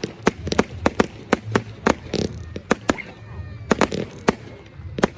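Fireworks going off in a rapid, irregular string of sharp bangs and crackles, several a second, with a longer hissing burst about two seconds in.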